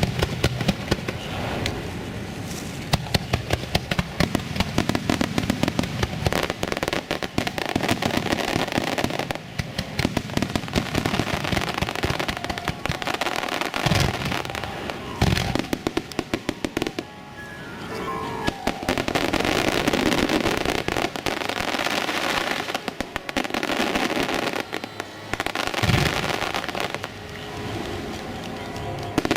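Aerial fireworks display: dense, rapid crackling and popping, with a few deep booms of shells bursting and, midway, a whistling tone sliding downward.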